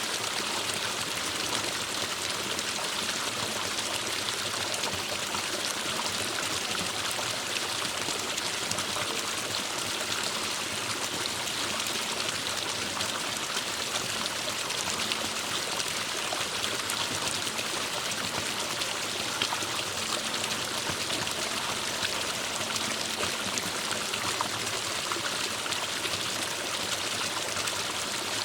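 Forest stream running over rocks: a steady rush of flowing water with small splashes and trickles.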